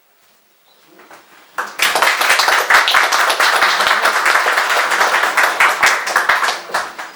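Audience applauding. The clapping starts up about a second and a half in, holds dense, and dies away near the end.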